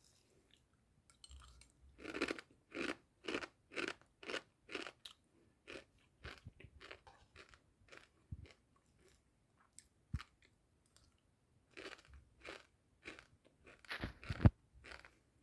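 A person biting into and chewing a crunchy snack close to the microphone: a run of crisp crunches about two a second, a quieter spell, then more crunches. Near the end comes a dull thump.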